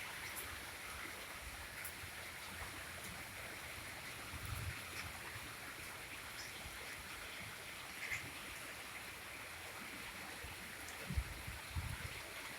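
Steady rain falling, a constant even hiss, with a few brief low thumps about four and eleven seconds in.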